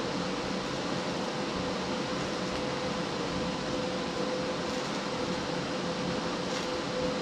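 Primeweld TIG 225X welder running: a steady hiss with a constant whine, unbroken throughout.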